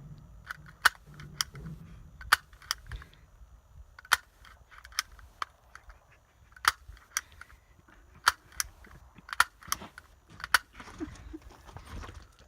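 A string of sharp, irregular clicks and taps, roughly one or two a second, over a faint low rumble.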